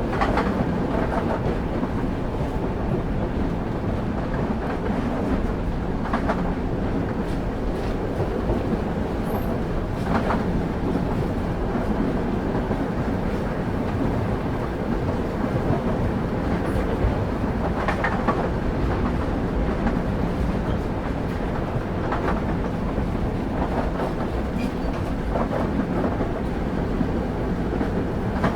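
Train running at speed, heard from on board a railway carriage: a steady low rumble of wheels on rails, with a sharp clack every few seconds as the wheels cross rail joints.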